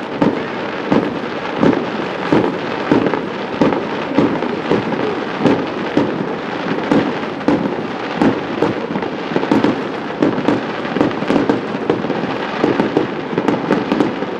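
Aerial fireworks shells exploding in a dense, continuous string of bangs, several each second, getting denser near the end.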